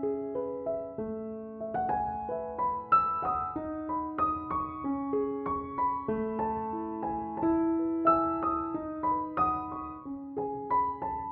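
Background piano music: a gentle melody of single struck notes that ring and fade, over sustained lower notes.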